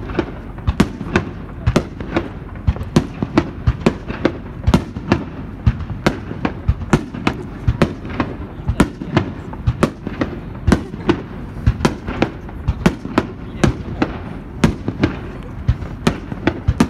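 Aerial fireworks shells bursting in rapid, irregular succession, about three bangs a second, over a steady low rumble.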